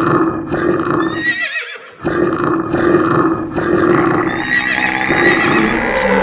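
Stampede sound effect: a herd's rumbling with regular thuds about twice a second, and a horse whinnying about a second in and again near the five-second mark. The sound drops out briefly just before the two-second mark.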